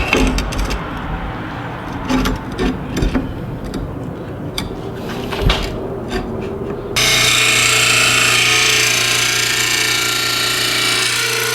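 Metal knocks and clatter as the mower blade is adjusted on an Oregon blade sharpener. About seven seconds in, the sharpener's grinding wheel bites into the steel blade and grinds steadily with a loud hiss.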